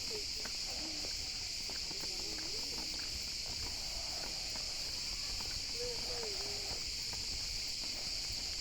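Steady, high-pitched insect chorus that holds without a break, with faint distant voices beneath it.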